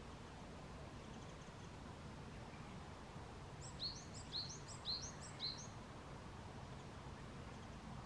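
Japanese tit singing a short phrase of four quick repeated two-note figures, about two a second, a few seconds in, over a steady low background rumble.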